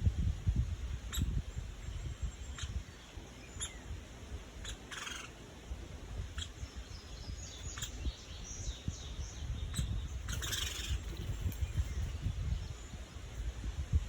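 Bird calls: a short call about five seconds in and a louder one near eleven seconds, with a few faint chirps between them. Scattered single taps and a steady low rumble underneath.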